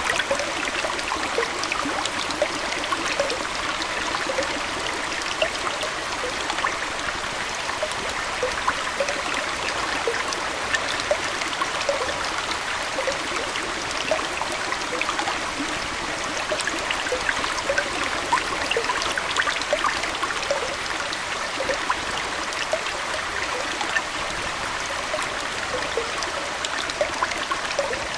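Aquarium water trickling and bubbling steadily, a continuous wash dotted with many small, quick plops.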